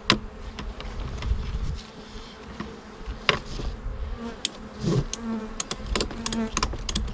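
Honeybees buzzing around an open hive, with repeated sharp knocks and clicks as the wooden hive parts are handled, coming thick and fast in the last couple of seconds.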